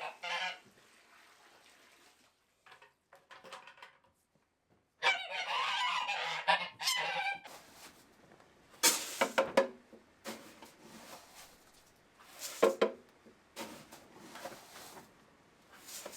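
Domestic geese honking in separate bursts, a longer run of calls about five seconds in and short sharp honks later, with quiet gaps between.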